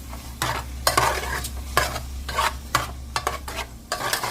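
A spoon stirring and scraping through a pan of sizzling vegetables and vegan chicken strips as they fry, in irregular strokes, roughly two a second.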